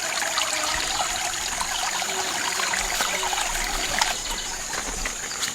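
Water trickling and splashing in muddy shallows, a steady hiss with many small crackles, over a thin, steady high-pitched tone.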